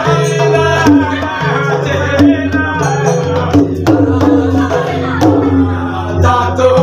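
Bhajan (folk devotional song) with a sung melody over a steady hand-drum rhythm and clashing jhaal brass hand cymbals.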